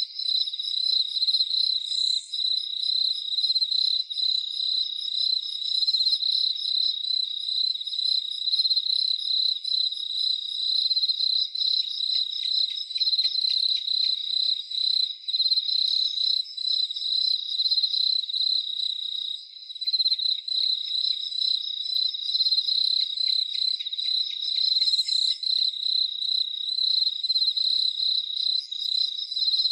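Crickets chirping in a steady, high, rapidly pulsing chorus.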